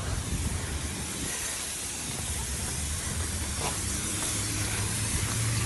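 Steady outdoor hiss of street noise with the low rumble of an elevated train, the rumble growing louder in the last couple of seconds.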